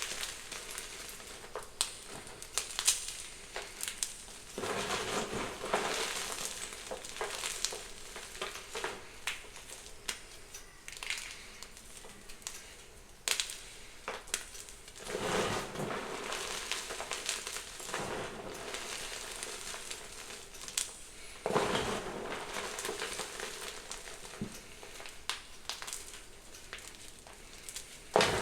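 Blocks of gym chalk being crushed, with crunching and crumbling full of sharp cracks and crackles. Louder crushes come in spells, about five seconds in, about fifteen seconds in and about twenty-two seconds in.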